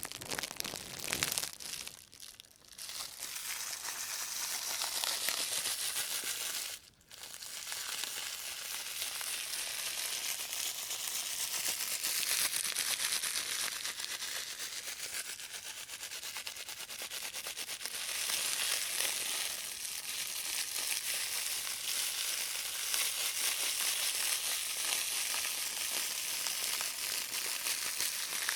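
Thin white plastic carrier bag handled and crumpled by rubber-gloved hands, recorded close up in binaural: a continuous crinkling rustle that breaks off briefly about two seconds in and again about seven seconds in.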